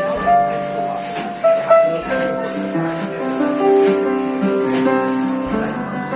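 Live small-band jazz: sustained keyboard chords and melody notes moving along, with a light shaker-like percussion ticking steadily over them.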